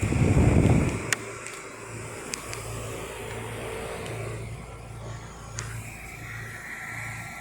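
Trane heat pump outdoor units running: a steady low hum that swells and fades in a slow beat, roughly once a second. A loud low rumble comes in the first second.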